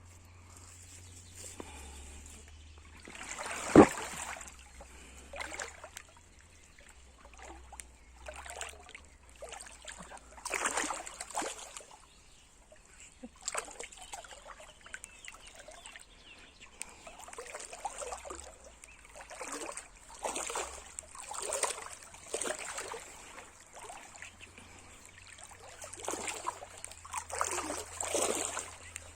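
Small river's water splashing and trickling in irregular surges. A sharp thump about four seconds in is the loudest sound.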